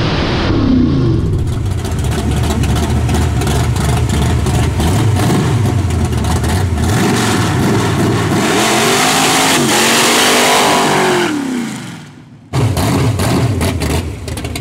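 Small-block Ford V8 of a stick-shift Fairmont wagon running hard, its pitch falling about a second in, then revving up, holding and dropping back about two thirds of the way through. The engine noise cuts out briefly near the end and comes back loud.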